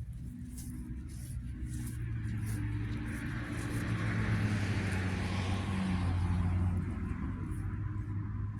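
A car engine running with a steady low hum, while a rushing noise swells over a few seconds and fades again.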